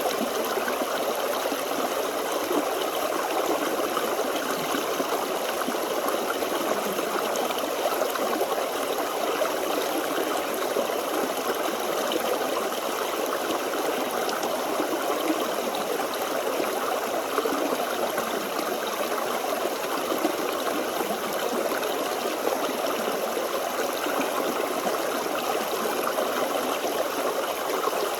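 Forest stream: water running and trickling over rocks in a steady babble.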